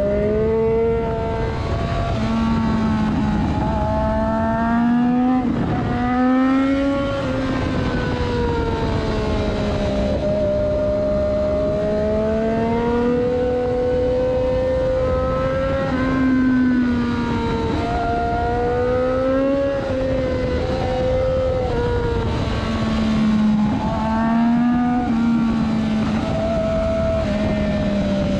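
Triumph Daytona 675R's 675 cc inline-three engine heard from on board, its note rising and falling again and again with the throttle through a series of bends, over steady wind and road noise.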